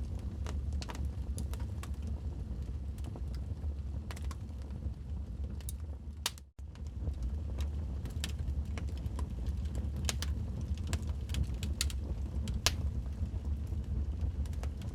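Wood fire burning in a fireplace, crackling with irregular sharp pops over a steady low rumble of the flames. The sound cuts out briefly about halfway through.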